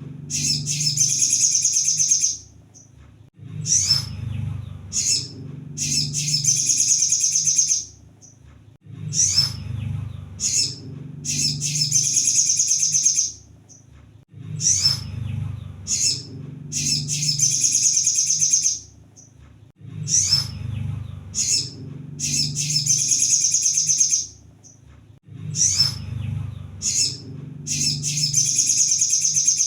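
Crimson sunbird (kolibri sogon) song played as a repeating lure call. A few sharp, high chips lead into a rapid, high twittering trill of about two seconds, and the phrase repeats roughly every five and a half seconds over a low background hum.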